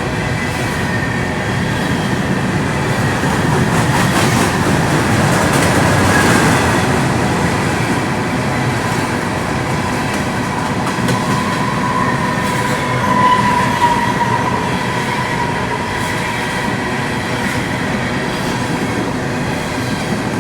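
Train rolling past close by: a steady rumble of wheels on the rails, with a thin high squeal from the wheels that grows stronger for a couple of seconds past the middle.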